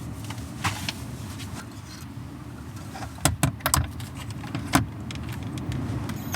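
A few sharp clicks and small metallic clatters of hooks and hardware being handled, over a steady low rumble of wind buffeting the van.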